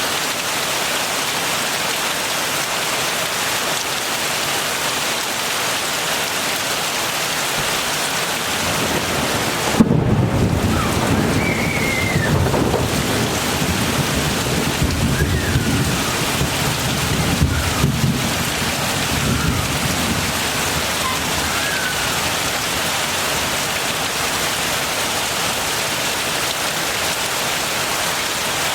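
Steady heavy rain falling. About a third of the way in a sudden crack of thunder breaks in, and its low rumble rolls on for around ten seconds before fading back under the rain.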